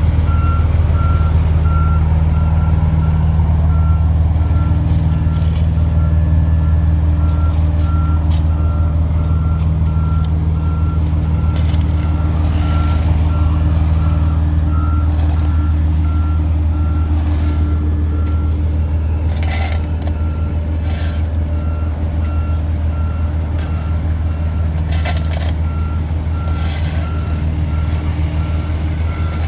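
A heavy road-work machine's engine running steadily, with its reversing alarm beeping in an even repeating pattern throughout. A few short hisses sound around the middle and near the end.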